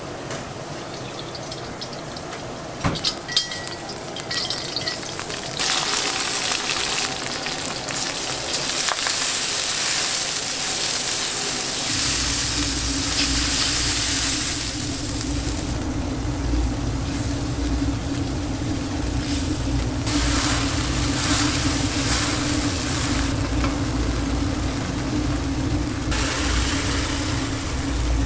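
Spicy sauce ingredients sizzling and frying in hot oil in a steel wok over a gas burner, the hiss starting about five seconds in. About twelve seconds in, water is poured into the wok and a steady low rumble joins the sizzling.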